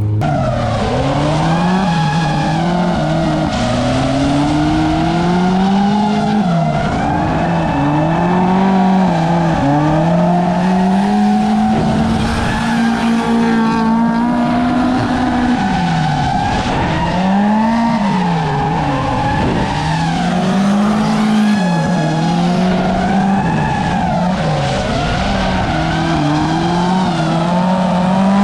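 Ford Mustang drift car on a tandem drift run: the engine revs rise and fall repeatedly, with the tyres squealing and skidding throughout.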